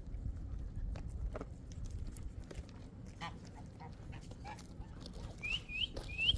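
Three short, high, upward-sliding calls from an animal near the end, over a low rumble and scattered light knocks.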